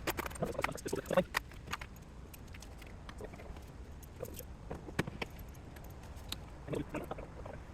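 Scattered clicks and light metallic clinks of hand tools and engine-bay parts being handled: a quick cluster in the first second and a half, then a few isolated taps.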